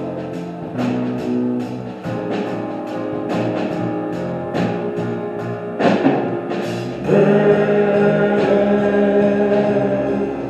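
Live gospel song with voices and a band: sustained chords under steady cymbal ticks from the drum kit, swelling louder about seven seconds in.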